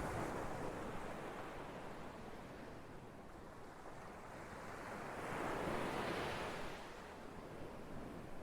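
Ocean waves washing in, two swells of surf: one fading away in the first few seconds, the next building to a peak past the middle and easing off near the end.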